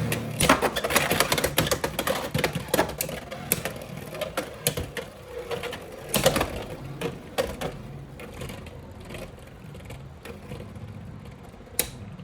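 Two Beyblade X spinning tops battling in a stadium: a rapid rattle of clicks and clashes, loudest in the first seconds with a hard hit about six seconds in, then a quieter steady whir with scattered clicks.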